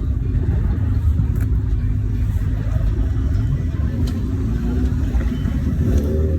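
Car engine running, a low steady sound with no clear revving.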